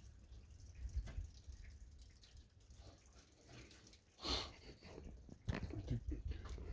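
Faint clicks and light knocks of hand work on the tractor's throttle linkage and cable, with a short hiss about four seconds in.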